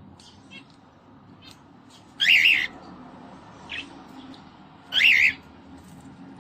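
Cockatiel calling: two loud, wavering calls of about half a second each, roughly three seconds apart, with a shorter, fainter call between them and soft chirps around them.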